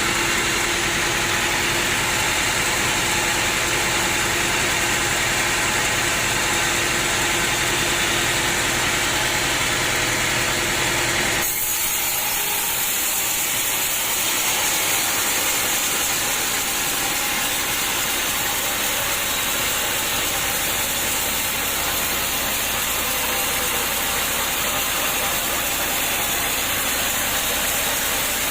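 Sawmill running: an engine runs steadily, then about eleven seconds in the sound switches abruptly to a steady hissing saw noise, the blade cutting through wood, with much less engine rumble underneath.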